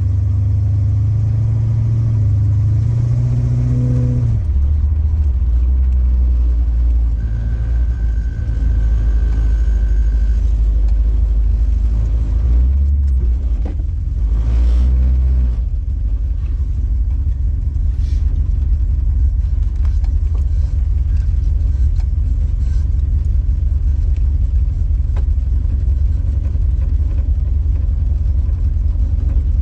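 Big-block 400 V8 of a 1969 Chrysler New Yorker with H-pipe and Dynamax Ultraflow mufflers, heard while driving: a deep, steady exhaust rumble whose note changes a few times, around 4 s in and again between about 12 and 16 s, then runs evenly.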